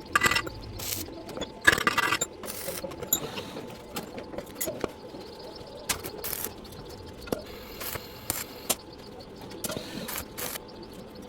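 Irregular metallic clicks and knocks from metal parts being handled. Two louder ringing clanks come near the start and about two seconds in.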